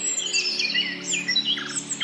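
Several songbirds chirping and singing at once in a morning chorus: rapid, overlapping high whistled notes, trills and quick pitch slides. A faint steady low hum runs underneath.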